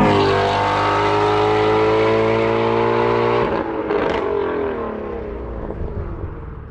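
1991 Mercury Capri's 1.6-litre four-cylinder engine running steadily under way. The engine note drops away about three and a half seconds in, and the sound fades.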